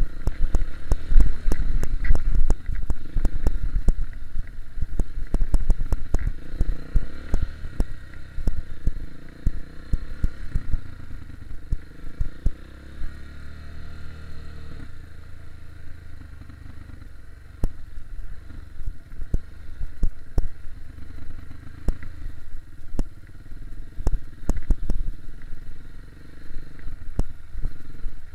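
KTM 250 EXC-F single-cylinder four-stroke enduro bike ridden at low revs over a rough trail, with many clattering knocks from the chassis and stones. About halfway through, the engine holds a steady note for a few seconds.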